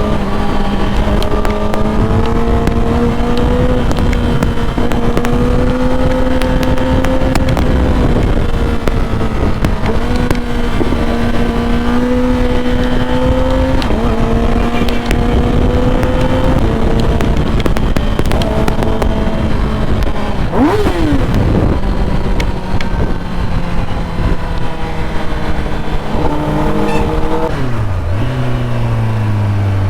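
Superbike engine running while riding, its note shifting up and down with the throttle and gears over heavy wind rumble on the microphone; near the end the engine note drops low as the bike slows.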